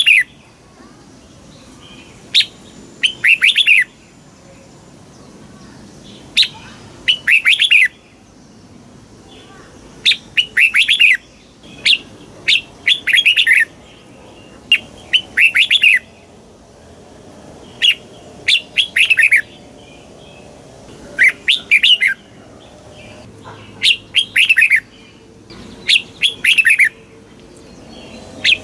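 Red-whiskered bulbul singing. It repeats short, bright phrases of a few quick notes, one phrase every two to three seconds.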